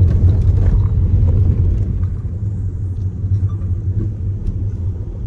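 Car driving, heard from inside: a steady low rumble of engine and road noise from a car that the occupants say is making lots of bad noises on the remote road. The rumble eases a little about two seconds in.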